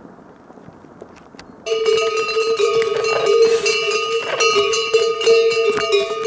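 Faint wind noise, then, about a second and a half in, loud clanking metal bells begin, ringing on and on with many overlapping strikes.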